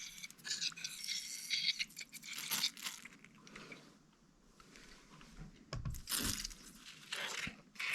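Rustling and crinkling from hands working at a bench. A few light clicks and knocks follow, from small metal parts being handled.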